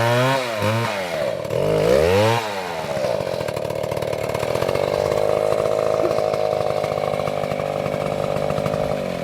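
Chainsaw running at high revs. Its pitch wavers and dips over the first two or three seconds, then holds steady.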